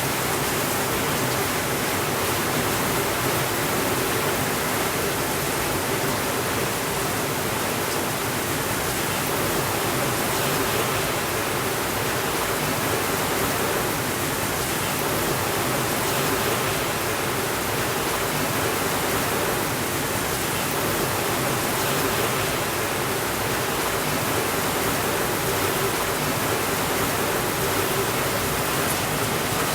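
Steady rainfall, an even unbroken hiss with no thunder.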